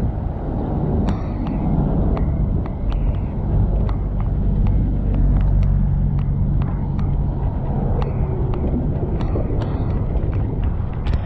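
Riding noise of a bicycle in city traffic: a steady low rumble of wind and road, with irregular sharp clicks and rattles throughout and a motor vehicle running close by for a few seconds near the middle.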